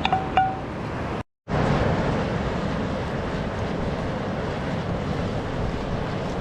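Steady rush of river water. In the first half second come a few short metallic rings, like a utensil tapped on a cookpot, and about a second in the sound cuts out completely for a moment before the rush resumes.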